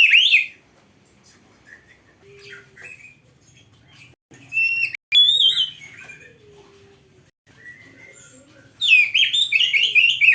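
Oriental magpie-robin singing in loud bursts of rich, varied whistled phrases: a short burst at the start, two more in the middle, and a rapid run of phrases near the end, with faint calls between.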